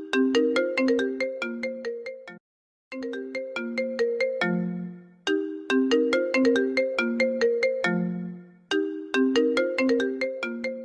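An Apple ringtone playing on a loop: a quick melody of short notes, each starting sharply and dying away, in phrases that repeat every few seconds, with a brief break about two and a half seconds in.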